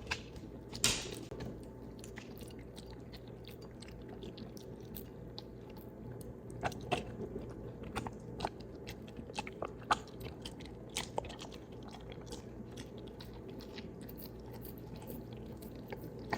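A dog chewing and eating a small cooked egg: soft, irregular mouth clicks and smacks, busiest in the middle stretch.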